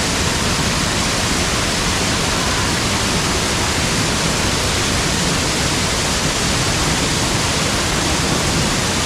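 Dunn's River Falls waterfall pouring down, a loud steady rush of water that does not change.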